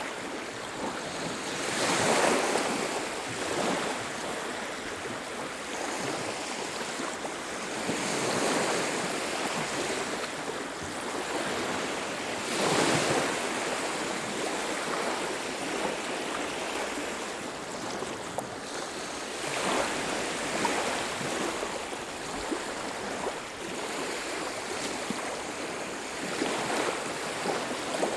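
Sea waves breaking and washing up a beach: a steady hiss of surf that swells five times, every five to seven seconds, as each wave comes in.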